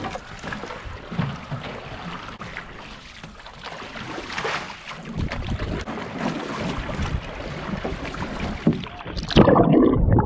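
Outrigger canoe being paddled through choppy sea: irregular splashing of water against the hull and paddles, with wind rumbling on the microphone. Near the end the sound switches abruptly to a louder, duller rush.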